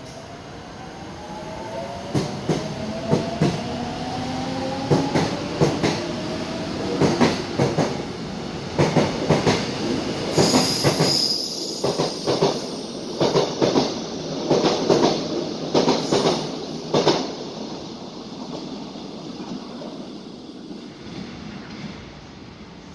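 Korail Class 1000 'flat-nose' electric commuter train pulling away and picking up speed: a rising motor whine, then its wheels clacking over rail joints in groups of two or three that come quicker and quicker, with a brief high squeal about ten seconds in. The sound fades away near the end as the train leaves.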